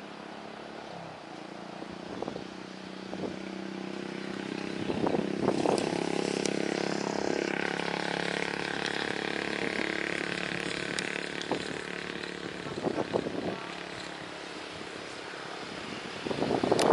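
Jet airliner engines passing by, a steady drone with a held whine that swells over several seconds and then fades.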